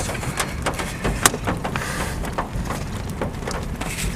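Hailstones striking a car: irregular sharp knocks, several a second, over a steady low rumble, with one louder knock about a second in.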